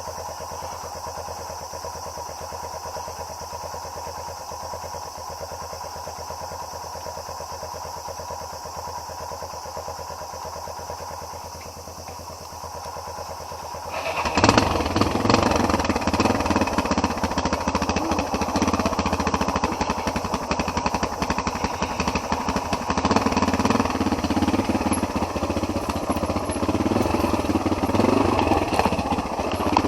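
Trail motorcycle engine running steadily at low revs, then about 14 seconds in it gets markedly louder and busier as the bike is ridden off under throttle.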